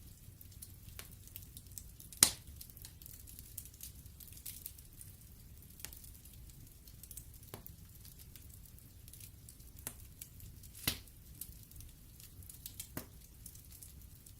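Log fire in a fireplace crackling: a steady run of small ticks with a few sharper pops, the loudest about two seconds in and another about eleven seconds in.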